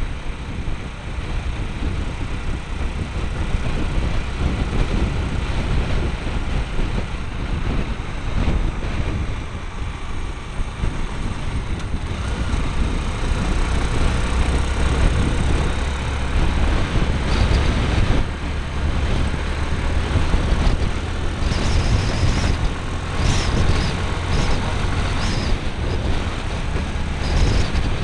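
A motorbike being ridden, heard through a small camera strapped to the bike: a heavy, continuous rumble of wind and road noise over the engine, growing somewhat louder about halfway through, with brief gusts in the last third.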